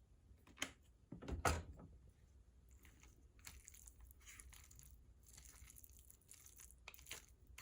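Faint handling noises of a fish-cake mixture being made: a few knocks, the loudest about a second and a half in, then soft, irregular scraping as the mixture of canned mackerel, crab cake mix and dressing is stirred.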